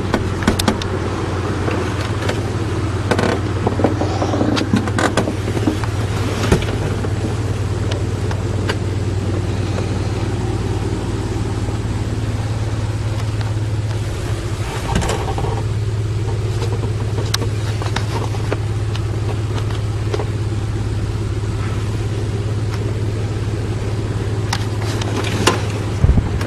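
1975 Piper Arrow's four-cylinder piston engine and propeller running steadily, with a constant low drone and no change in engine speed.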